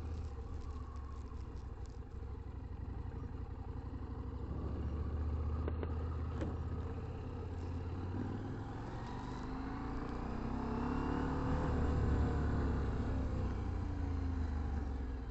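KTM 890 Adventure motorcycle's parallel-twin engine running at road speed, with road and wind noise. Around ten to thirteen seconds in, a louder engine sound swells and fades, its pitch rising then falling.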